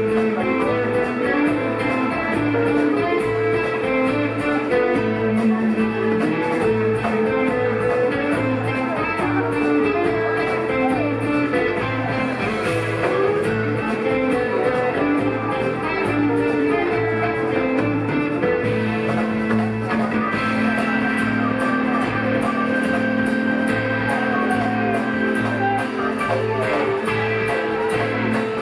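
Live rock band playing an instrumental passage, with electric guitar to the fore over a steady pulsing bass line and keys.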